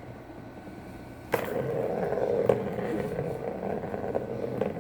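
A ball rolling around a round cat toy as a cat bats it, getting louder with a sharp knock about a second in and rolling on steadily, with a couple more knocks.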